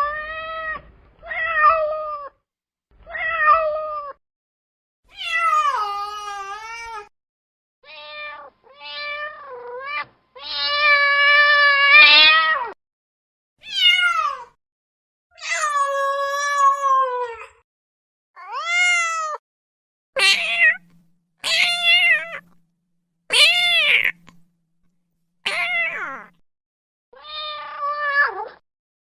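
A cat meowing over and over, about seventeen separate meows with silent gaps between them; most are short, and one near the middle is held for about two seconds.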